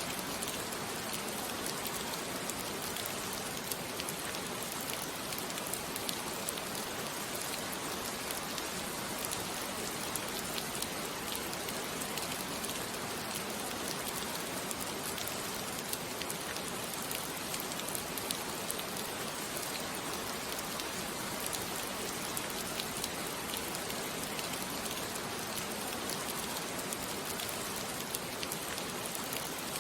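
Steady rain falling, an even hiss with many small raindrop ticks scattered through it.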